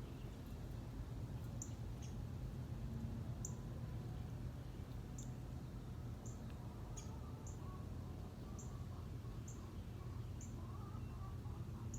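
A small bird giving short, high chip notes, about ten of them spaced a second or so apart, over a steady low hum.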